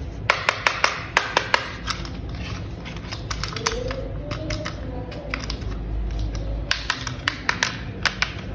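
Small hard plastic toy parts clicking and snapping together as they are assembled: a quick run of sharp clicks near the start, a quieter stretch, then another run of clicks near the end.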